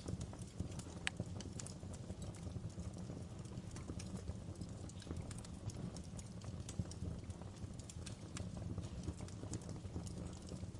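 Wood fire in a fireplace crackling: irregular sharp pops and snaps over a steady low rumble of the flames, with one louder pop about a second in.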